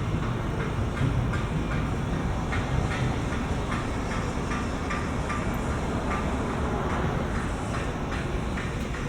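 Steady low rumble of wind and traffic while riding a bicycle across a bridge, with light clicking rattles a few times a second from the bike.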